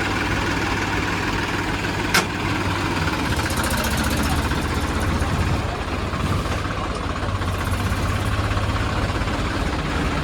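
Tractor diesel engine running steadily, with one sharp click about two seconds in.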